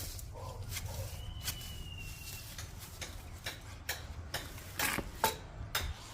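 Irregular light clicks and taps, a few sharper than the rest, over a low steady rumble, with a faint thin whistle lasting about a second and a half, starting about a second in.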